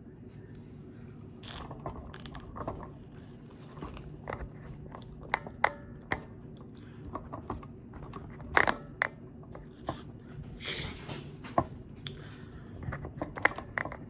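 Close-up eating of a McDonald's meal: crunchy bites and chewing, with paper wrapping rustling and scattered sharp clicks.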